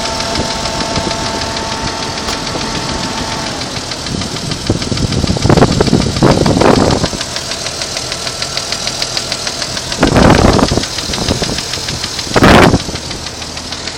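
1992 Jeep Cherokee engine running with a fast, steady ticking, the strange noise in question. Three brief louder bursts come partway through.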